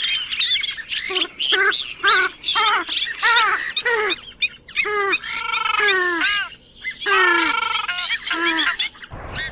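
Purple swamphens calling: a rapid run of short, harsh pitched calls that rise and fall, one after another with hardly a pause. A rushing noise comes in near the end.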